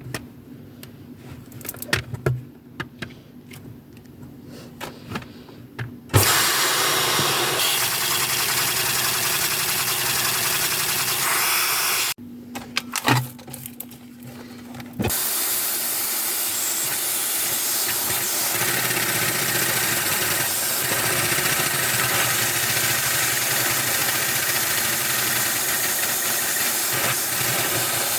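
Household vacuum cleaner running with a loud, steady rushing noise, used to suck air through a LEGO vacuum engine. It switches on about six seconds in, stops about twelve seconds in and starts again a few seconds later. Handling clicks and knocks can be heard while it is off.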